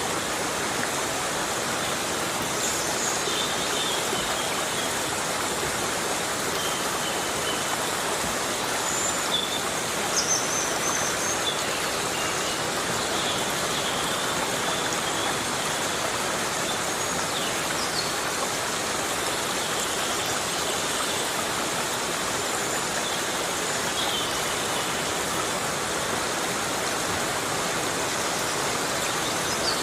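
Steady heavy rain falling on forest foliage, a dense even hiss with no let-up. A few short, high chirps come through it here and there.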